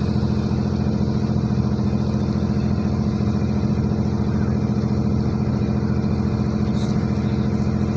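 A ship's engine running steadily during a berthing manoeuvre, a constant low drone with a fast, even pulse and no change in speed.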